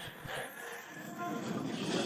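Rumble and clatter of a mounted war band setting off at a charge, building toward the end.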